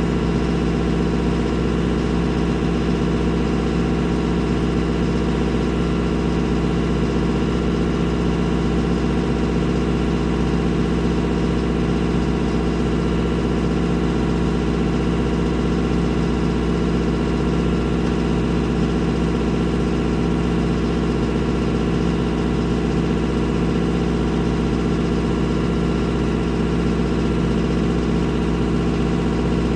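A vehicle engine running steadily at an unchanging speed, with no revving.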